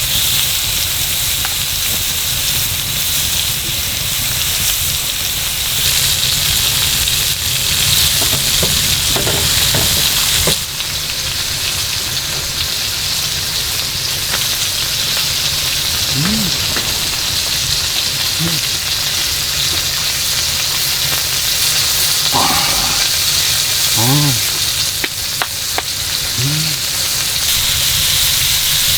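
Beef short ribs sizzling steadily on a grill, a continuous frying hiss.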